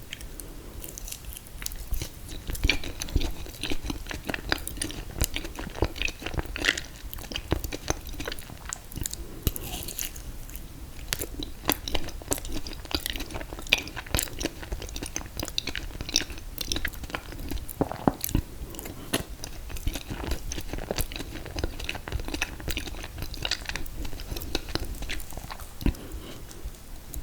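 A person eating mint chocolate chip ice cream cake with confetti cake, close to the microphone: steady wet chewing with many small crisp crunches and clicks, and no talking.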